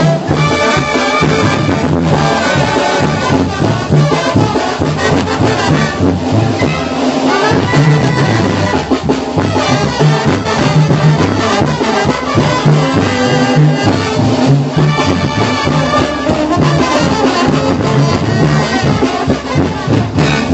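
Live Mexican banda music, an instrumental passage: brass section of trumpets and trombones playing over a steady tuba-and-drum beat.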